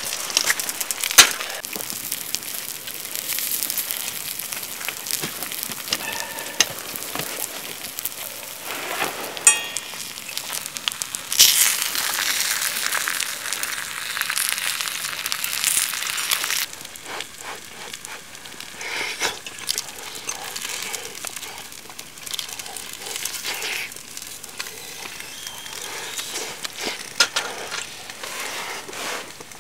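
Eggs frying in a frying pan, sizzling and spitting with small pops, while a fork works at them. About two-thirds of the way through the sizzling cuts off, leaving only quieter scattered clicks and crackles.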